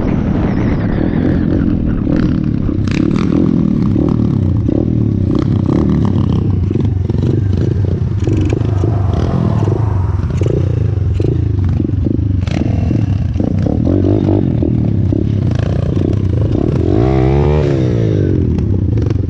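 A 125cc single-cylinder four-stroke pitbike engine running under throttle while being ridden, with frequent clattering knocks over the engine note. About 17 seconds in, the revs drop and climb again.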